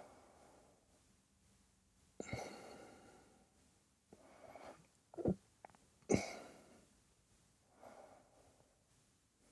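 A person breathing audibly while holding a yoga backbend: about five separate breaths, the two sharpest starting about two and six seconds in and trailing off over a second each.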